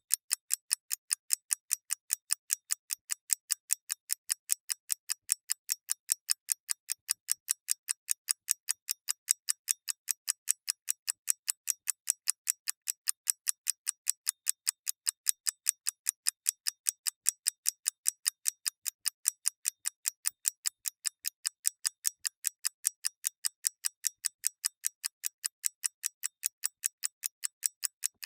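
Mechanical clockwork ticking in a fast, even rhythm of about four crisp ticks a second.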